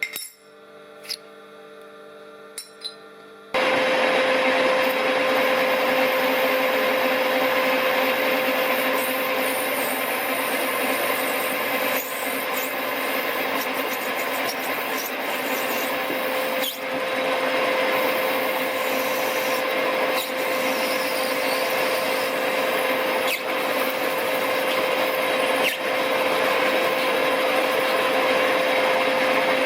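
A Smart & Brown Model A lathe starts suddenly about three and a half seconds in and runs steadily with a constant whine, while a parting-off blade cuts into the brass bar stock. Before it starts there are a few light clicks over a low hum.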